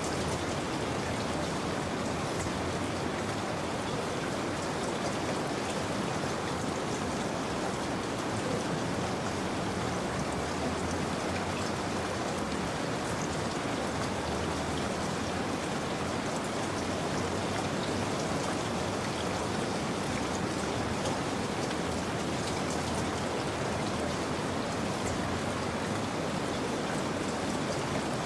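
Steady rain falling, an even wash of rainfall with faint scattered drop ticks and no changes.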